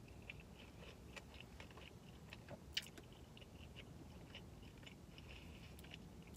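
Faint closed-mouth chewing of a bite of cheeseburger, soft wet mouth clicks scattered throughout, with one slightly sharper click a little under three seconds in.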